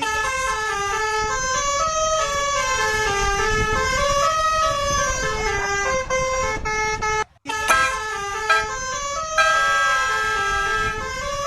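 Electronic melody of short notes stepping up and down in pitch, briefly cut out about seven seconds in, then settling into a held steady tone near the end.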